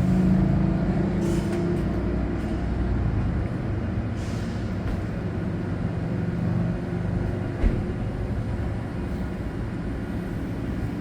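Metrolink commuter train's diesel locomotive running with a steady low drone, which eases off about three and a half seconds in. A single sharp knock comes a little after halfway.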